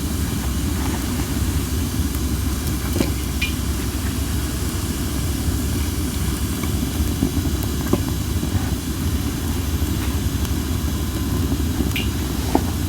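Cherry-wood campfire crackling with a few sharp pops, over a steady low rumble of strong wind on the microphone. Under-dried logs give off a hissing sizzle.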